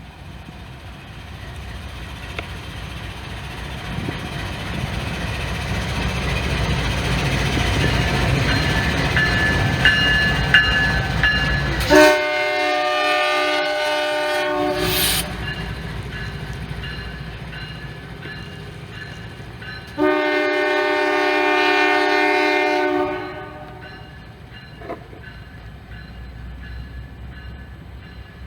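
Norfolk Southern train passing: the low rumble of the train builds for about twelve seconds, with some brief high squeals, then the locomotive's air horn sounds a chord twice, each blast about three seconds long. The rumble eases off after the second blast.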